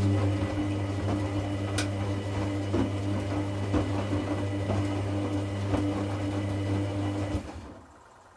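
Hoover Classica 1100 AC164 washing machine running in its rinse: a steady low hum with water sloshing and small clicks, cutting off about seven and a half seconds in.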